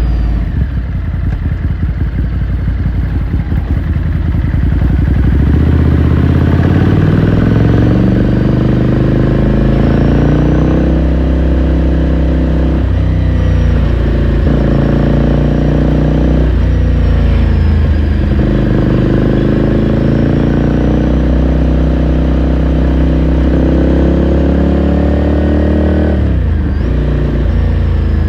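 Ducati Scrambler Sixty2's 399 cc air-cooled L-twin heard from the rider's seat. It chugs at low revs, then pulls away with the revs climbing and dropping through several gear changes. It runs steadily for a while and eases off near the end.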